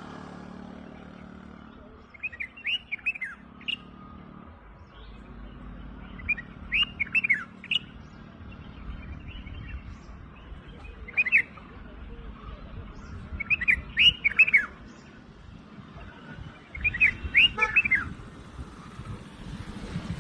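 Birdsong: short phrases of quick chirping notes recurring about every three to four seconds, over a steady low rumble.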